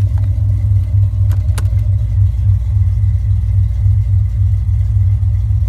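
A freshly rebuilt 454 big-block V8 idling, heard from inside the car's cabin: a steady low rumble with an uneven pulsing beat. A couple of light clicks come about a second and a half in.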